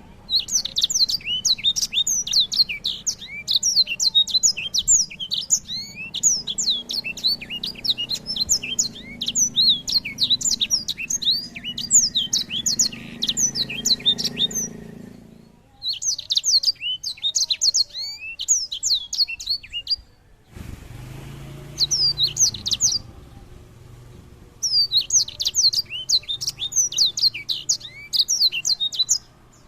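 A small songbird singing a fast, unbroken twitter of quick high chirps and trills, in long phrases with short pauses between them.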